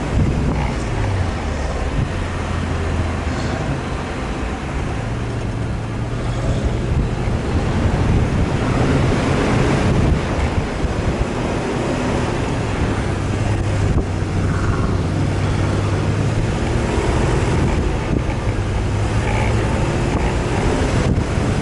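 Off-road vehicle's engine running at a steady hum, its pitch shifting slightly, under a constant rush of wind and tyre noise.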